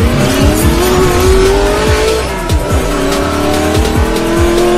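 Race-car engine sound effect revving up, rising in pitch for about two seconds, dropping back and climbing again, over a hip hop beat with a steady kick drum.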